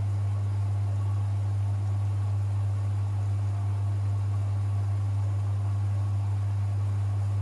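Privileg 5020 front-loading washing machine running, a steady low hum with no breaks or changes.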